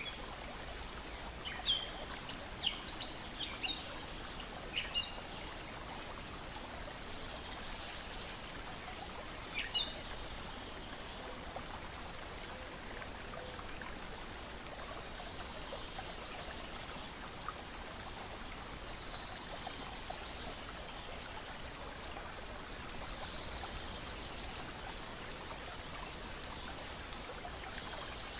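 Steady water lapping and trickling, with songbirds chirping in quick calls through the first five seconds and again about ten seconds in, then a brief high trill.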